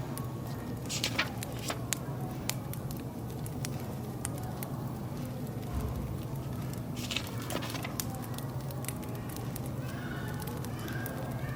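Wood fire crackling with frequent sharp pops, over a steady café background of low murmur and distant chatter.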